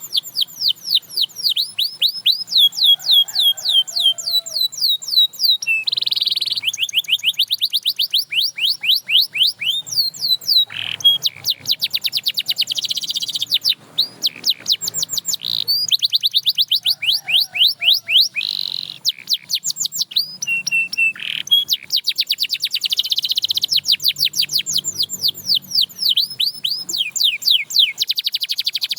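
Domestic canary singing: long trills of rapid down-slurred notes, several to a dozen a second, in phrases that break off and restart every few seconds.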